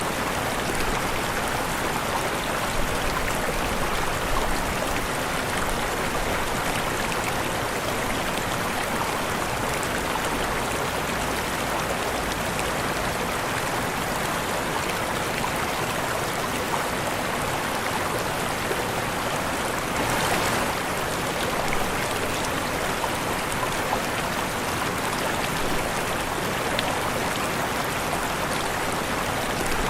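Waterfall: steady rushing of falling water, even and continuous, with a slight swell about two-thirds of the way through.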